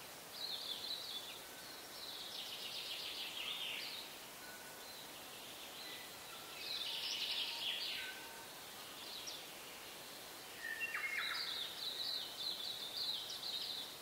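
Songbirds singing in short bursts of fast, high chirps, about five phrases separated by pauses, with the longest one near the end, over a steady faint hiss.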